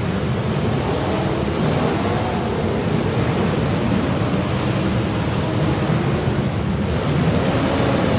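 Several demolition derby cars' engines running and revving together in a dense, continuous din.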